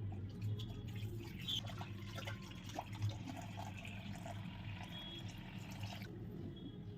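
Water trickling and dripping, as when a clay bird water pot is filled, over a steady low hum; the trickle stops about a second before the end.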